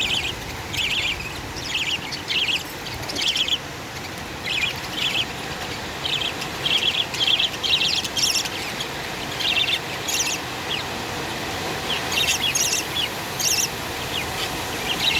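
Budgerigars chirping: short, quick chirps repeated several times a second, as chicks in the nest are being fed.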